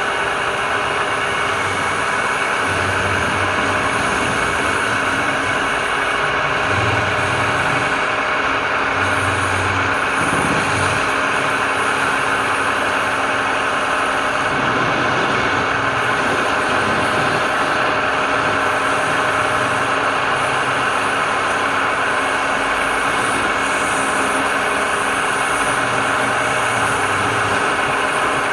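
A workshop power tool running steadily with a constant whir that does not stop.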